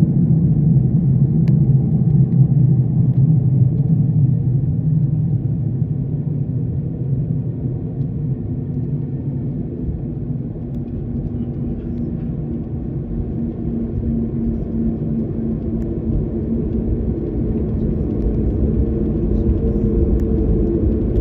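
Steady cabin noise inside a jet airliner: a low engine and airflow rumble with a faint hum. It eases a little partway through and builds again near the end.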